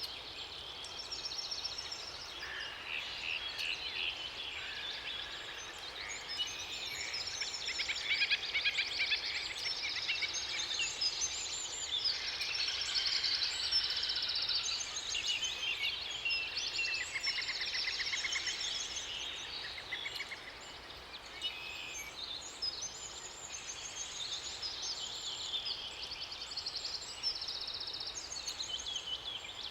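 Several songbirds singing at once in a dense, overlapping chorus of rapid trills and chirps, over a faint steady rush of water.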